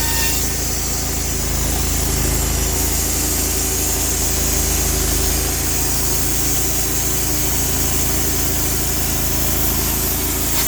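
Sawmill engine running steadily, with a steady high hiss over it.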